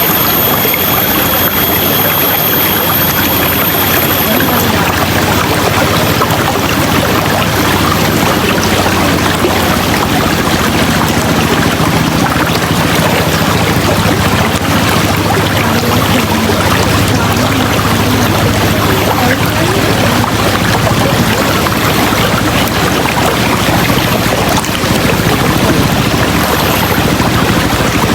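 River water rushing steadily, with a dense, even wash of sound; a thin high steady tone sits over it and stops about four seconds in.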